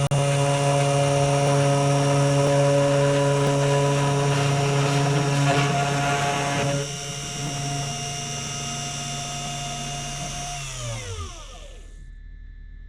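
Spindle motor of a cheap desktop CNC router whining steadily while the bit cuts wood, with the cutting noise stopping about seven seconds in. The spindle keeps spinning alone, then winds down, its pitch falling away until it stops near the end: the carving job is finished.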